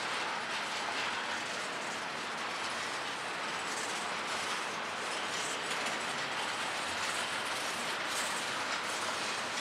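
Freight cars of a Florida East Coast intermodal train, flatcars carrying highway trailers, rolling past steadily: continuous wheel-on-rail rolling noise.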